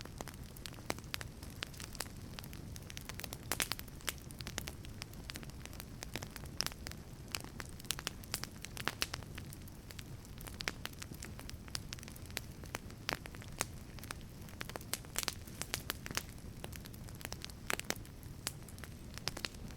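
Wood fire burning in a wood-fired pizza oven, crackling with many sharp irregular pops over a steady low rumble of flame.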